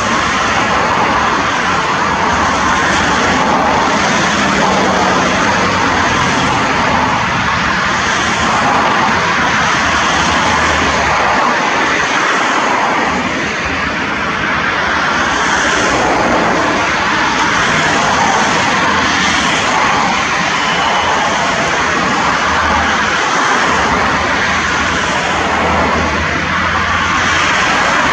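Airbus A320 jet engines heard from the ground: a loud, steady rushing noise that dips slightly about halfway through.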